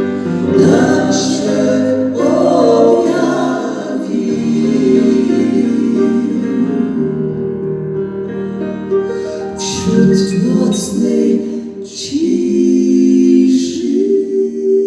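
A choir singing a Polish Christmas carol in long held chords.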